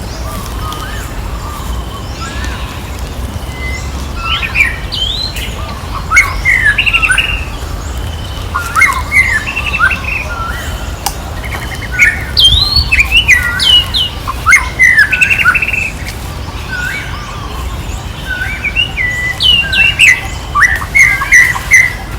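High-pitched chirping and squeaking animal calls, short sharp glides coming in quick clusters again and again, over a steady low rumble.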